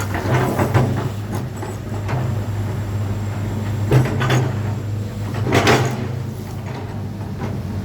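Komatsu PC200-6 excavator's diesel engine running with a steady low hum, with a few sharp knocks over it, the sharpest about four seconds in.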